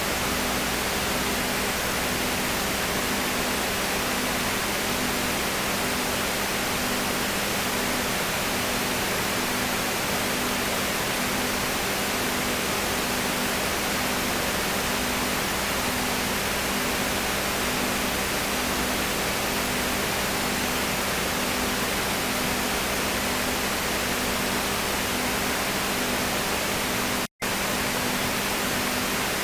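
Steady hiss with a faint low hum that pulses slowly, typical of noise on an old recording's soundtrack. The sound drops out for an instant about 27 seconds in.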